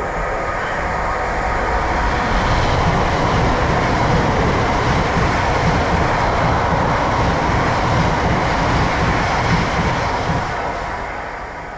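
A train running through the station on the rails: a loud, steady rumble of wheels and running gear that swells over the first couple of seconds, holds, then begins to fade near the end.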